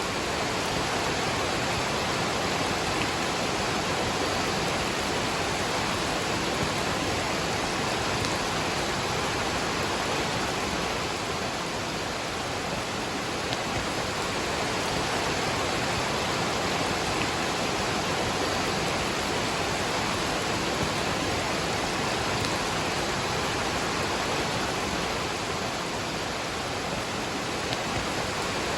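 Waterfall rushing steadily, with rain falling, an even wash of water noise without a break.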